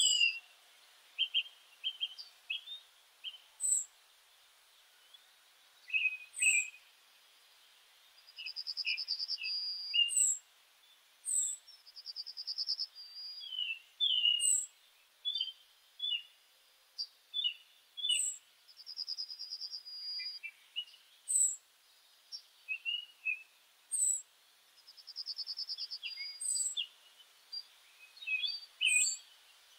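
Birds chirping and calling: many short high chirps and sharp falling whistles, with a rapid trill of about a second and a half repeated four times.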